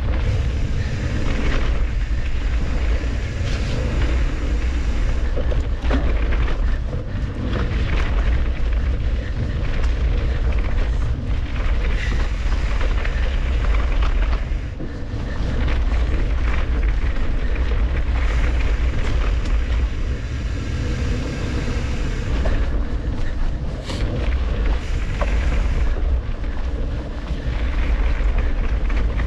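Wind buffeting a helmet or handlebar action-camera microphone on a mountain bike descent, a loud, steady rumble mixed with tyre noise on dirt and scattered clicks and rattles from the bike.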